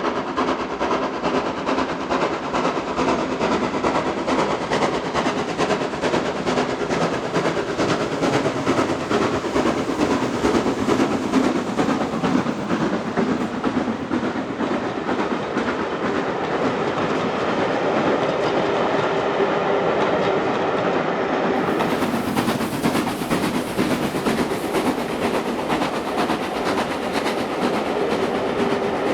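A train running on a heritage steam railway, with a continuous rattle of wheels clicking over the rail joints.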